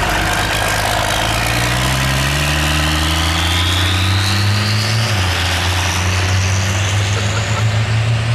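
Cummins diesel truck engine running hard, its low drone rising in pitch a couple of seconds in, with a thin high whine that climbs steadily through the rest.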